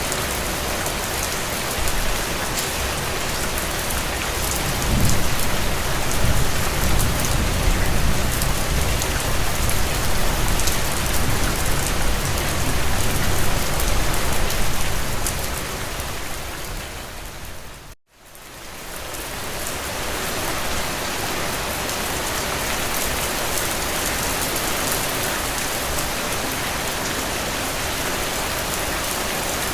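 Steady rain falling on a window, with a deeper low rumble from about five to fifteen seconds in. The sound then fades down to a brief silence about eighteen seconds in and fades back up to the same steady rain.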